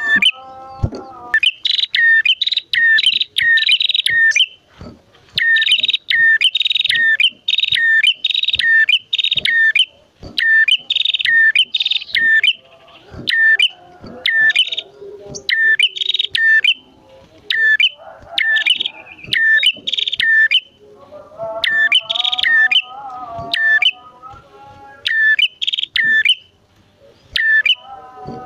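Prinias (prenjak), a male and a female, calling loudly: bursts of sharp, high chirps repeated several times a second with short pauses between, and a lower warbling call for a few seconds about three-quarters of the way through.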